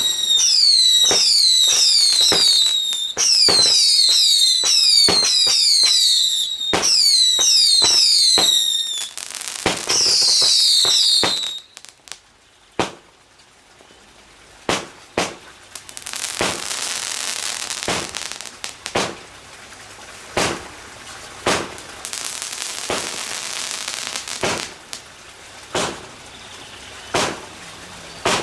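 Fireworks: for about the first eleven seconds, a rapid barrage of many overlapping falling whistles mixed with sharp bangs, which stops suddenly. After that come scattered single bangs, and from about the middle on they sound over a steady hiss.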